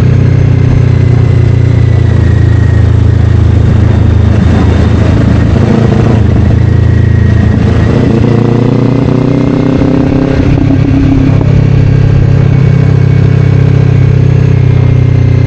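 Kawasaki Ninja 500 parallel-twin engine running through an Akrapovic slip-on exhaust while riding, its pitch shifting with the throttle in the middle of the run and settling to a steady note in the last few seconds.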